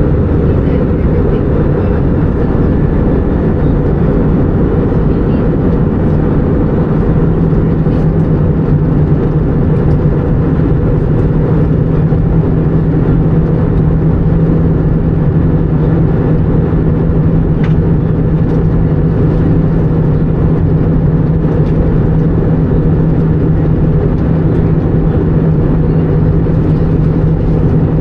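Airbus A319-100 cabin noise in flight: a steady, loud roar of the engines and airflow, with a low steady hum that grows stronger several seconds in.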